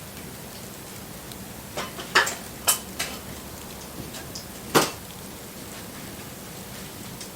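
Wood bonfire burning with a steady hiss, broken by a quick cluster of sharp cracks about two seconds in and one loud crack near the five-second mark.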